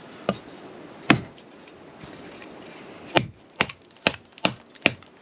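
Kindling being split by hand, with chopping strikes on wood: two separate knocks, then from about three seconds in a steady run of strikes, about two a second.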